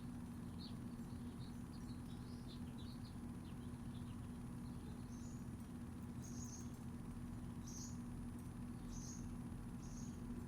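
Small birds chirping: a quick jumble of short chirps for the first few seconds, then a single repeated chirp about once a second. Under them runs a steady low hum, with a faint constant high-pitched tone above.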